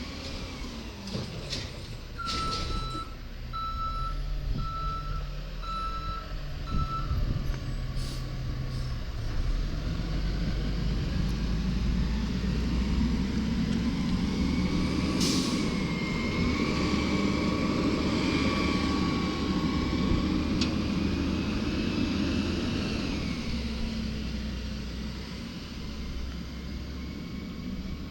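Garbage truck backing up with its reversing alarm beeping about six times, then an air brake hissing once. The diesel engine then revs up and holds high for several seconds with a steady whine before dropping back to idle.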